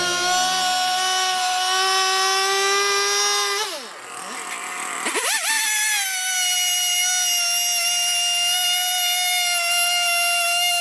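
Two-stroke chainsaw running at high revs with a steady whine; about four seconds in the revs drop sharply, then climb back up and hold steady again.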